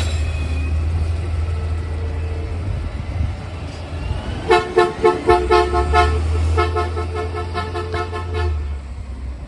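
Truck engine running with a low hum while a two-tone vehicle horn sounds in rapid short toots, about four a second, in two runs with a brief pause between them.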